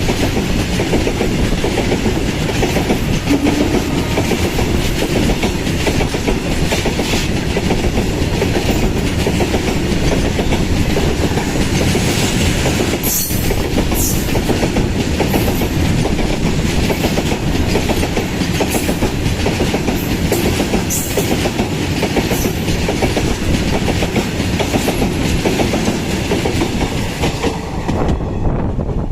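Freight train's wagons rolling past close by without stopping, wheels clacking over the rail joints, with a few brief high squeals from the wheels. The high rattle drops away near the end.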